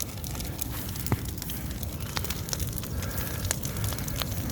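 Large bonfire of dry old wood burning, crackling with irregular sharp pops over a steady low rumble, one pop louder about a second in.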